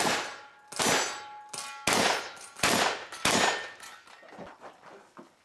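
Shotgun fired in quick succession at steel targets: five loud bangs about a second apart or less, with the steel plates clanging and ringing after the hits.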